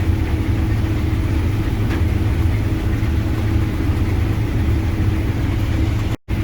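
Combine harvester running steadily while combining wheat: a constant low engine and machinery drone with a steady hum, cutting out for an instant near the end.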